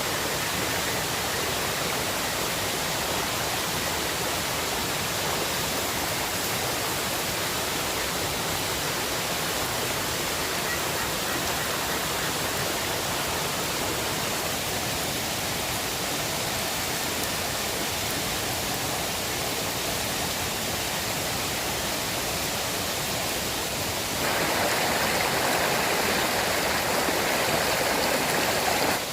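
River water rushing steadily. About 24 seconds in it becomes louder and brighter, then falls back abruptly near the end.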